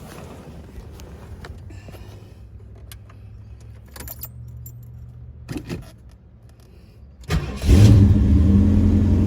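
Keys rattling and a few clicks, then about seven seconds in a 351 Cleveland V8 with a four-barrel carburetor catches on a cold start and settles into a loud, steady fast idle on the choke.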